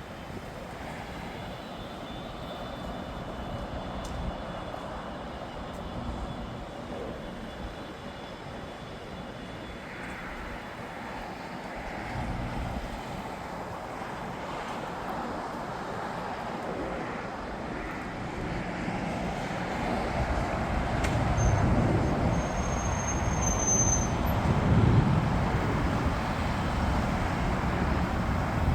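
Jet airliner engines: a broad rushing rumble that builds steadily louder over the second half, with a faint high whine near the end.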